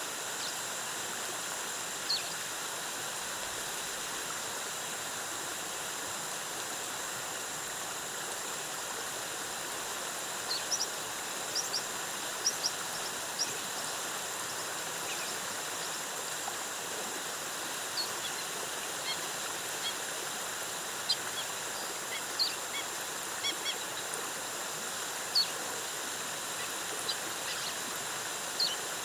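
Steady rushing of a rainforest waterfall, with short, high bird chirps scattered over it, a few at first and more from about a third of the way in.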